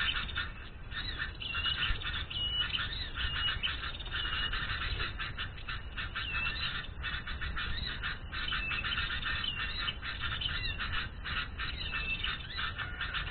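Small birds chirping rapidly and continuously, with short high whistled notes repeated over and over.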